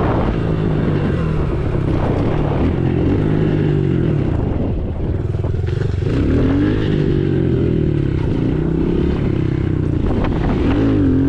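A 110cc dirt bike's single-cylinder four-stroke engine under way, its pitch rising and falling several times as the throttle is opened and eased off.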